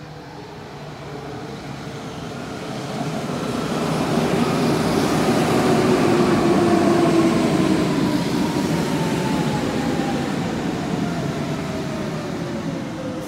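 Hanshin 5000 series commuter train pulling into the station: wheel and track noise grows louder as the cars come alongside, peaking about halfway, while a motor whine falls steadily in pitch as the train brakes to a stop.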